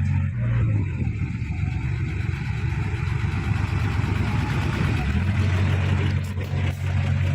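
Heavy earthmoving machine's diesel engine running: a steady hum that briefly rises about half a second in, turns rough and uneven, then settles back to a steady run about five seconds in.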